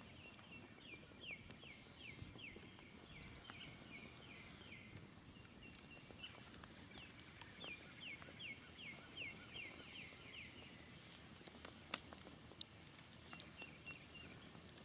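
Faint bird calling in two long runs of quick, evenly repeated descending notes, over the scattered small crackles of a smouldering campfire, with one sharper pop about twelve seconds in.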